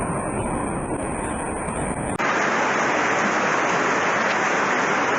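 A rushing, rumbling noise that cuts off abruptly about two seconds in, giving way to the dense, steady hiss of torrential rain.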